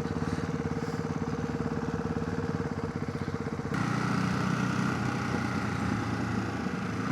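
Motorcycle engine running with a steady pulsing beat, heard from the rider's helmet. About three and a half seconds in, the sound changes suddenly and gets louder and fuller as the bike pulls away harder.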